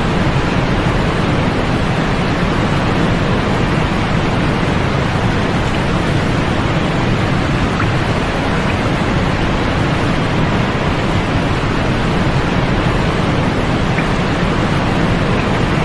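Sleep-aid noise: a constant, even rushing hiss with no rhythm or change, heavier in the low end and with little high treble.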